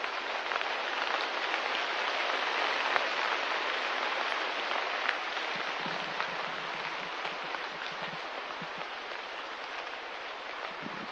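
Steady rain-like hiss with scattered drips and ticks. It swells a couple of seconds in, then eases off gradually.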